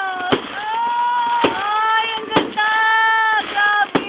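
Whistling fireworks: a run of about four held, shrill whistles, each about a second long, with sharp bangs of bursting shells between them.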